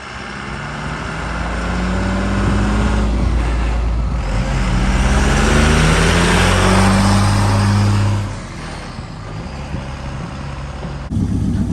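A vehicle's engine accelerating hard: its pitch climbs, drops briefly as it shifts gear, climbs again to its loudest, then falls away as it backs off.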